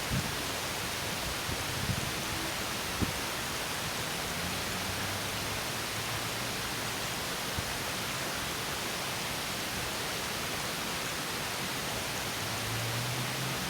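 Steady rush of water from a small stream spilling over a mini waterfall, with a few faint knocks in the first three seconds and a low hum that comes and goes.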